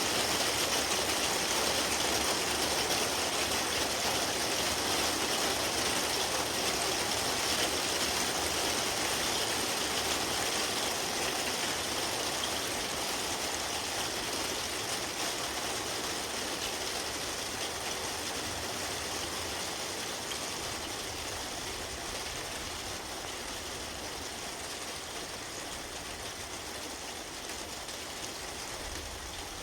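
Steady hiss of rain falling during a thunderstorm, slowly getting quieter.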